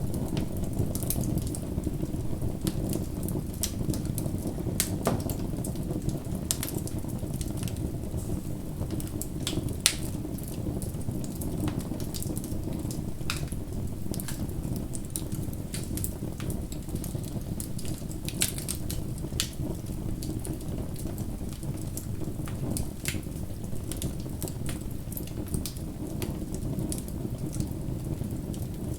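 Bonfire crackling: a steady low rush of burning wood with frequent, irregular sharp pops and snaps, one louder pop about ten seconds in.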